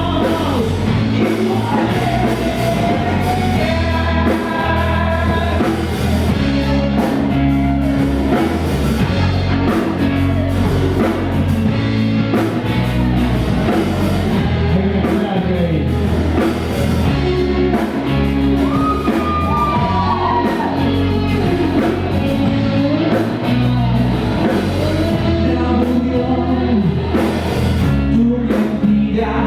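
A band playing a rock song live, with a singer's voice over the instruments throughout.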